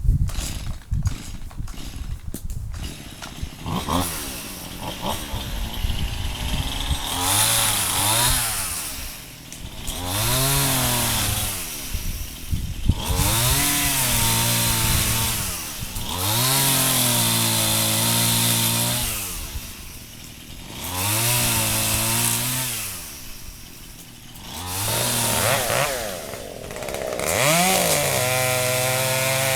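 Chainsaw engine revving up and falling back to idle about six times as it cuts wood, after a few knocks in the first seconds. It ends idling steadily.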